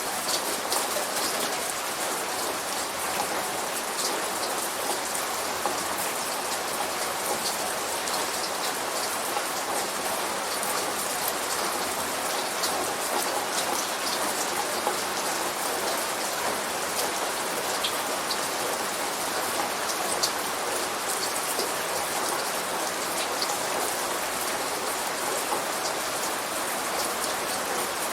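Light rain falling steadily, a constant hiss of rain with scattered individual drop ticks; no thunder.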